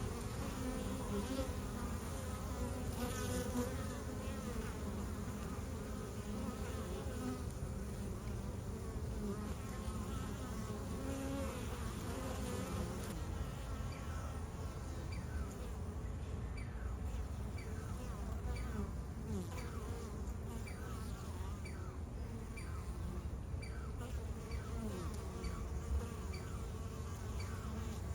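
Honeybees flying around a log hive: a steady buzzing hum made of many wingbeats at slightly different, wavering pitches. From about halfway through, short high chirps repeat roughly once a second over the hum.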